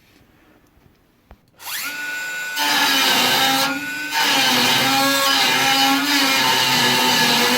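Electric drill spinning up with a rising whine about a second and a half in, then running loudly under load as it cuts into the steel cross member, drilling out spot welds to free the welded-on nuts. The load eases briefly about halfway through.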